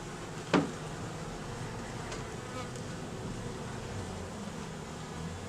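Steady hum of a colony of Buckfast honeybees buzzing in the open hive, with one sharp knock about half a second in.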